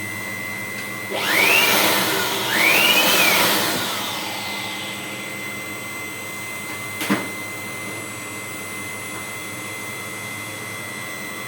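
Workshop machinery for machining heating elements running steadily with a high whine. Twice, a loud rushing noise of about a second swells in and out, its pitch rising then falling, and a single sharp click comes about seven seconds in.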